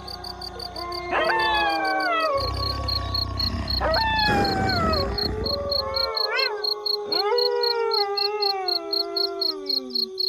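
A pack of wolves howling in chorus, several voices overlapping, each howl rising sharply then sliding slowly down in pitch, new howls joining about one, four and seven seconds in. A steady high-pitched pulsing chirp runs underneath, and a low rumble cuts off about six seconds in.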